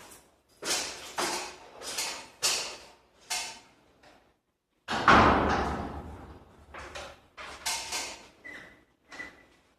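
Garage door being worked: a run of short scraping, rattling strokes, then a loud bang with a low rumble about five seconds in that fades over a second or so, followed by more short strokes.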